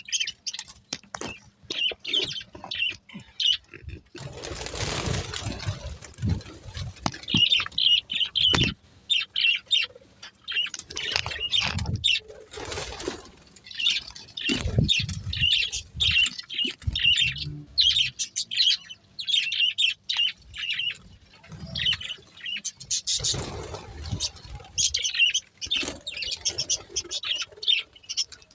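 Pet budgerigars chirping and warbling in quick, rapid runs, with scattered light knocks. Two short bursts of wing flapping, one about five seconds in and one near the end.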